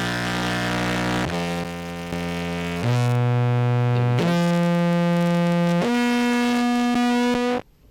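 Contrabass clarinet played through a fuzz and compressor pedal chain, giving a buzzy, synth-like tone. It plays five held low notes in a row, each at a steady volume, and cuts off sharply near the end.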